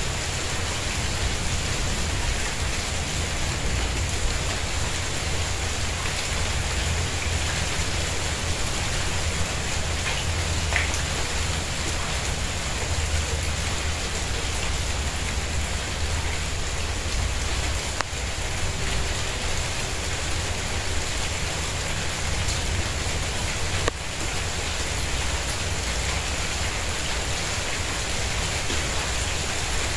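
Steady rain falling on a tiled courtyard and its potted plants, an even patter without a break, with a low rumble underneath.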